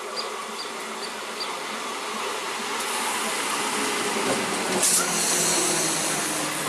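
Electric multiple unit local train running: a steady buzzing hum over rail noise that slowly grows louder, with a hiss joining in from about three seconds in and a brief louder burst near five seconds.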